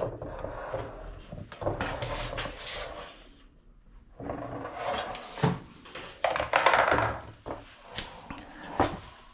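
Plastic parts of a top-loading washing machine's tub being handled and pried loose by hand: irregular scraping and rustling with several sharp clicks and knocks.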